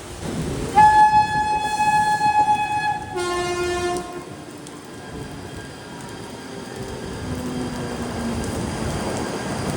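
Train horn sounding a high note for about two seconds, then dropping to a lower note for about a second, followed by the steady rumble of a train on the tracks.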